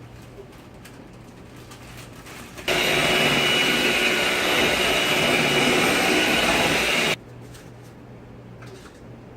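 Electric mixer running steadily with a whining motor hum, switched on a few seconds in and off again about four seconds later.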